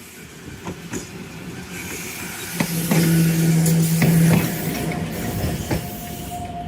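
Keifuku Randen Kitano Line tram passing, wheels clicking over rail joints. A steady low hum comes in with the loudest part, about three to four seconds in, then eases off.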